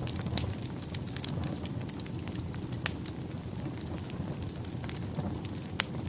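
Campfire burning, a steady low rush of flame with irregular crackles and sharp pops, three of them louder, about half a second in, near three seconds and near the end.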